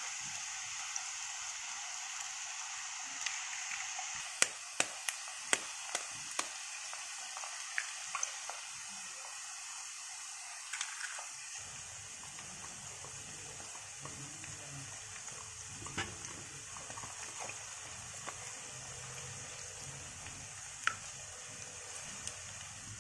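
Chopped onion, carrot and capsicum sizzling in hot oil in a nonstick wok: a steady frying hiss. A quick run of sharp clicks comes about four to six seconds in, and about halfway the sizzle changes as eggs go into the oil, then they are stirred with a spatula near the end.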